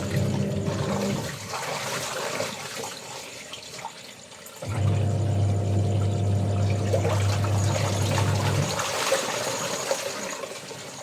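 Washing machine running its wash cycle: the motor hums in runs of about four seconds, stopping and starting again, with water sloshing throughout and insects droning steadily in the background.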